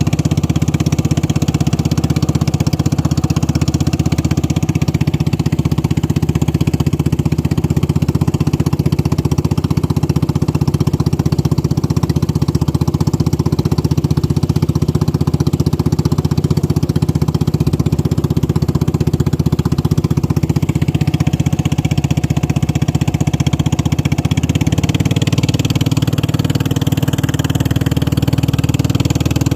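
Racing boat's engine running steadily at high, even power, a loud continuous drone whose pitch shifts slightly about three-quarters of the way through.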